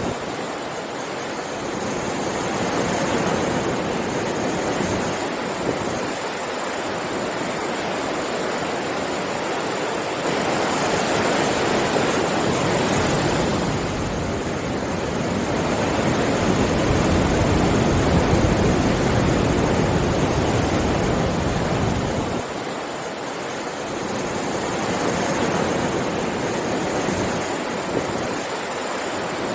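Ocean surf washing on a shore: a steady hiss of breaking waves that swells and ebbs over several seconds, with a low rumble as each larger wave comes in.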